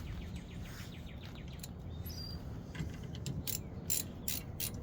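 Ratchet wrench clicking in a steady run of about three clicks a second from about halfway through, as the brake caliper bolt is run back in. A bird chirps faintly before it.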